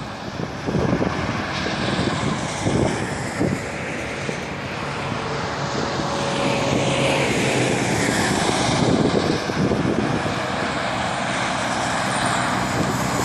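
Motorcycle engine running steadily under a broad rush of wind buffeting the microphone, with short gusty thumps now and then.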